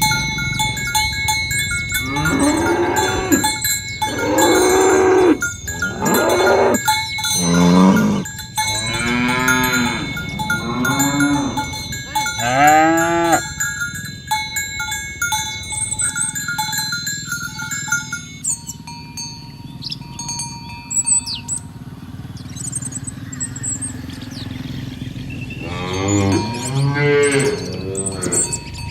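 Cattle mooing: a run of long, low moos one after another through the first half, then another moo near the end.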